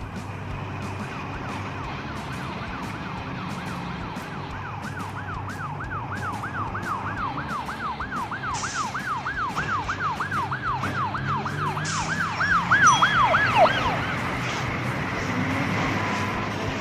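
Fire truck siren yelping, about two rising-and-falling sweeps a second, growing louder and then dropping away about fourteen seconds in, over a low vehicle rumble.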